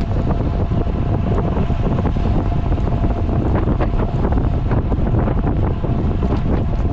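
Wind buffeting a camera microphone carried on a road bike at riding speed: a steady, loud rush of low rumbling noise.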